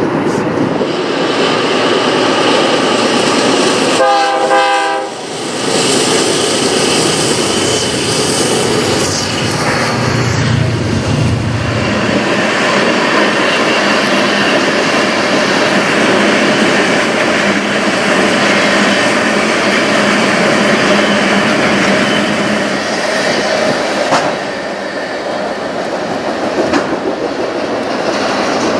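Train running past with its wheels going over the rails, and one short multi-tone horn blast about four seconds in.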